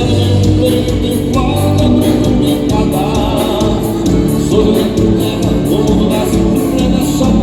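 Live band playing a chamamé, with singing over a steady beat.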